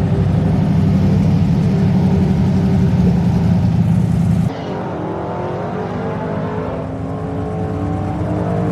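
An engine idles steadily and heavily. About halfway through, the sound cuts abruptly to a quieter engine note whose pitch rises and falls gently.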